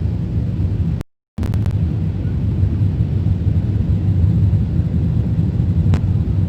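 Loud, steady low rumble of an Airbus A380 heard from inside the passenger cabin, cutting out completely for a moment about a second in.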